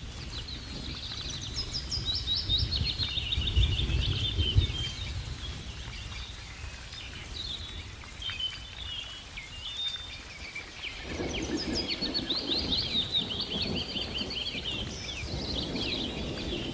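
Small birds singing in quick repeated high chirps and trills, over a low rumbling outdoor noise that swells twice.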